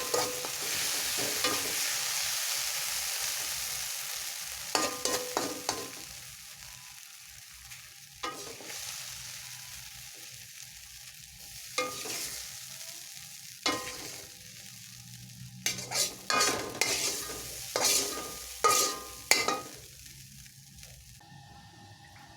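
Food sizzling in a hot pan, the hiss dying down over the first few seconds. Then a utensil scrapes and knocks in the pan in short separate strokes, several in quick succession near the end.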